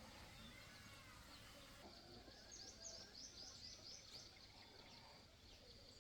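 Faint birdsong over quiet rural background: a run of quick, repeated high chirps through the middle, with a few softer calls before it.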